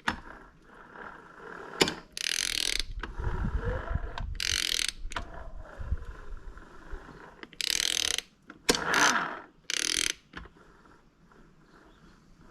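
Ratchet wrench clicking in several short bursts, about two to three seconds apart, as the Yamaha Warrior 350 engine is turned over by hand at the crankshaft to line up the timing marks.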